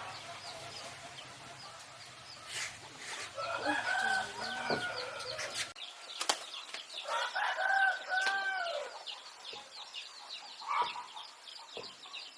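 Baby birds chirping fast and without a break, high and thin. Twice a rooster crows in the background, with a few sharp knocks in between.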